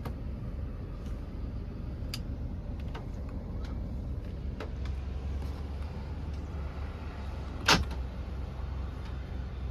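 Steady low rumble of a road vehicle, with a few faint clicks and one sharp knock near the end.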